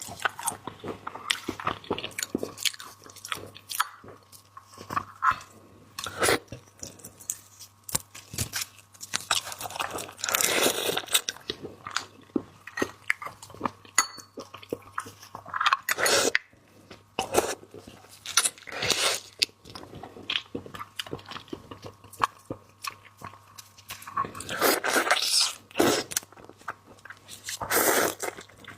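Close-miked eating of seafood: crunching and chewing with many sharp crackles and clicks, and a few longer, louder stretches now and then.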